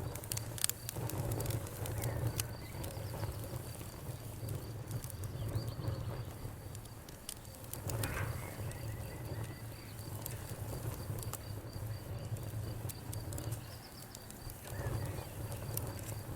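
Wood fire crackling in a fireplace: scattered sharp pops and snaps at irregular intervals over a steady low rumble of the burning fire.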